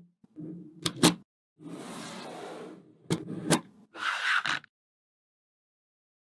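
Small magnetic balls clicking sharply together a few times, between stretches of scraping handling noise as the balls are moved about. The sound cuts to dead silence for the last second and a half or so.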